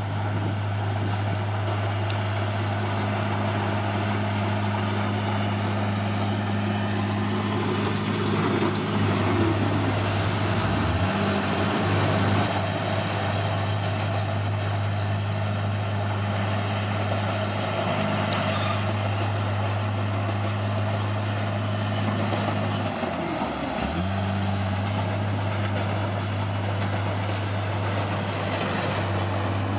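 Caterpillar D6R bulldozer's diesel engine running at a steady drone. Its pitch sags briefly twice, about a third of the way in and again near the four-fifths mark, then recovers.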